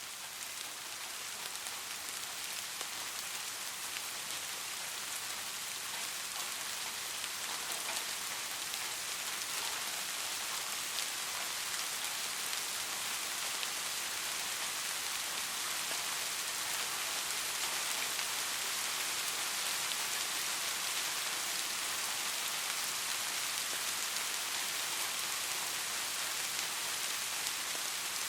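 Steady rain falling on a street, an even hiss with scattered faint drop ticks that swells gently over the first few seconds and then holds.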